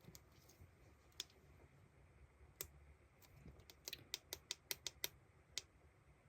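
Faint light clicks and taps of small objects being handled, with a quick run of them a few seconds in.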